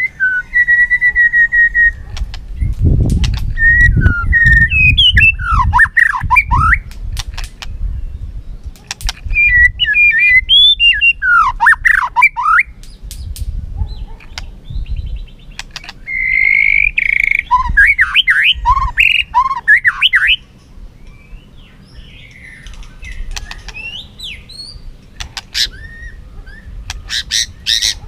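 White-rumped shama singing in competitive song: several loud phrases of clear whistled notes and quick rising and falling slurs, with a burst of sharp clicking notes near the end.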